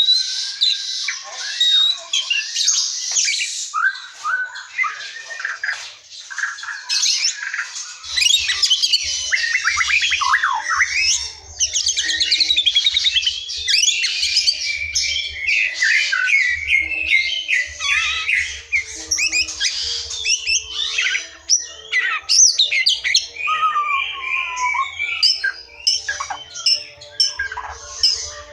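Wild white-rumped shama (murai batu) singing a long, unbroken run of varied loud whistles, trills and rapid chattering phrases.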